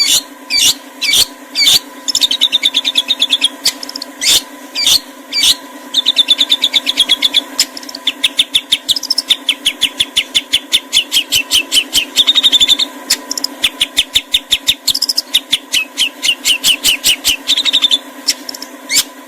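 Songbird singing in harsh, rapid 'shots': sharp single chip notes alternating with long, fast rattling trills, some lasting several seconds. A faint steady hum runs underneath.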